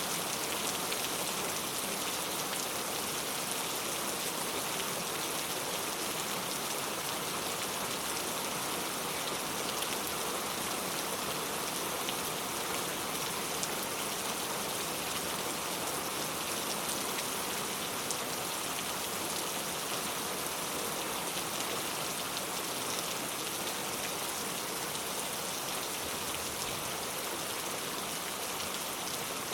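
Heavy rain falling steadily, an even wash of noise with many fine drop patters and no let-up or thunder.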